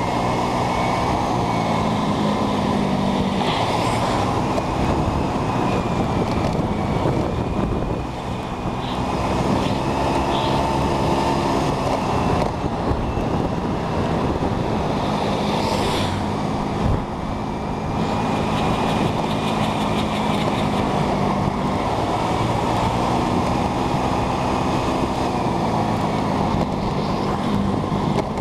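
Moped engine running at riding speed, its pitch rising and falling a little, over a steady rush of wind and road noise.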